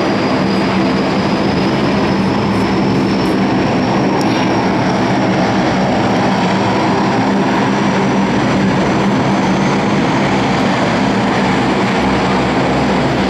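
Aircraft engine running steadily, with a faint high whine that slowly rises in pitch over the steady engine noise.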